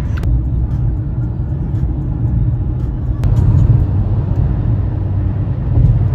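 Steady, loud low rumble, with two brief clicks: one about a quarter second in and one about three seconds in.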